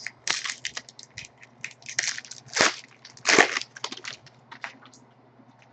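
Trading card pack wrapper crinkling and tearing as it is opened and the cards are handled: irregular crackles that die away about five seconds in.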